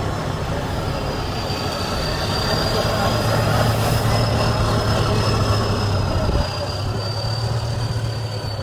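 Heavy trial truck's engine working hard, with a high, slowly wavering whine over a steady low drone; it builds, then eases off abruptly about six and a half seconds in.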